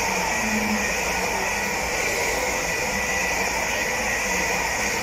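Electric multiple-unit passenger train passing along the platform at speed: a steady loud rush of wheels on rail, with a faint high whine in it.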